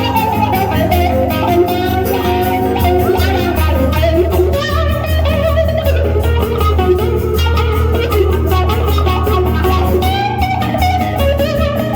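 Band playing an instrumental break of a country song, a guitar taking the lead melody over bass and a steady beat.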